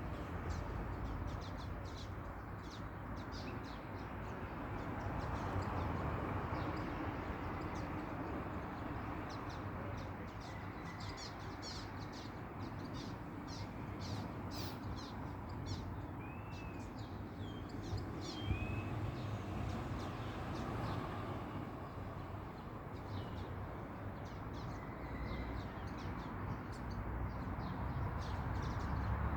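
A flock of small birds chirping and twittering, many short high calls overlapping throughout, with a few longer curved notes now and then, over a steady low rumble.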